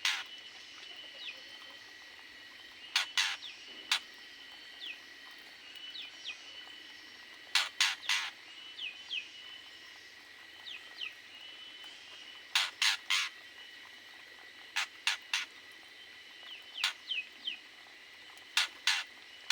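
Aviary birds calling: sharp calls in quick groups of two to four every few seconds, with faint short chirps between them over a steady high tone.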